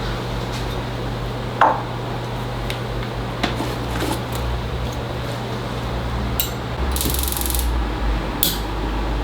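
Small clicks and clinks of hand tools over a steady low hum, with one sharp click about a second and a half in and short hissing bursts near the end.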